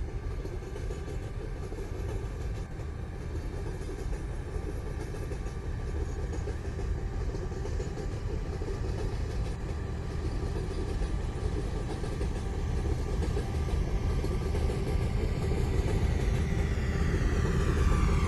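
BNSF diesel freight locomotive approaching: a steady low engine rumble with a faint steady hum above it, growing gradually louder.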